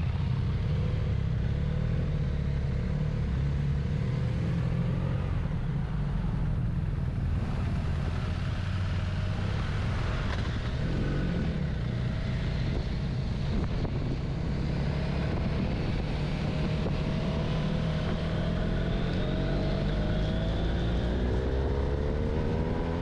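Motorcycle riding on the road: a steady engine rumble mixed with wind and road noise. The engine note rises and falls several times as the bike accelerates and changes gear.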